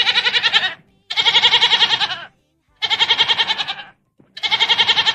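A farm animal bleating, one long trembling call after another, about four in a row with short gaps between, played as a recorded animal sound effect.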